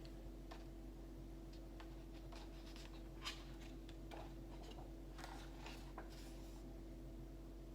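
Quiet room tone with a steady low hum and scattered faint clicks and ticks, the sharpest about three seconds in.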